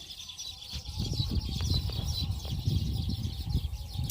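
Young house sparrows chirping in a quick, steady run of high calls, with louder low rustling and knocking from handling starting about a second in.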